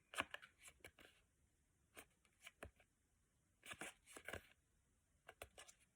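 Near silence in a small room, broken by a few faint, short clicks and rustles, a small cluster of them about four seconds in.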